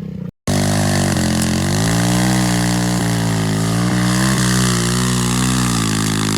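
Motor vehicle engine running loudly at fairly steady revs, its pitch rising and falling a little with the throttle. It starts abruptly about half a second in.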